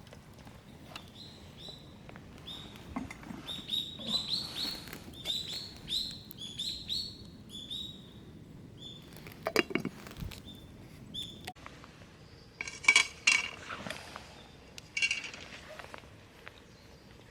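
A small bird calling over and over with short, high chirps that drop in pitch. In the second half it gives way to a few sharp metallic clanks and ringing clinks of camp cookware and utensils.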